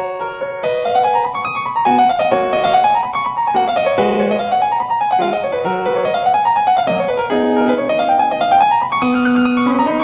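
Background piano music, with quick runs of notes rising and falling over and over.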